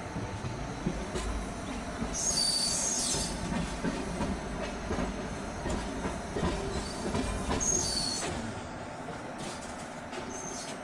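Passenger train rolling on the rails with a steady low rumble, its wheels squealing briefly about two seconds in and again about eight seconds in.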